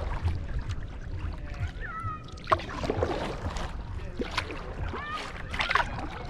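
Kayak paddle dipping and pulling through river water, with splashes, drips and the odd sharp knock, over a low wind rumble on the microphone. A few short pitched calls break in about two seconds in and again near the end.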